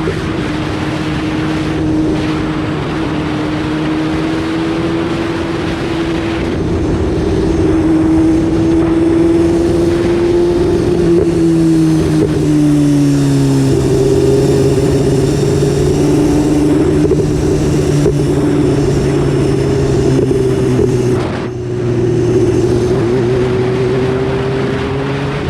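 BMW S1000RR's inline-four engine running at steady revs under a rush of noise. About halfway through the engine note falls and settles at a lower pitch.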